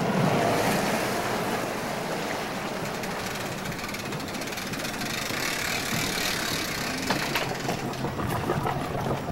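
Steady rushing wind on the camcorder microphone by the water, with a few light knocks near the end.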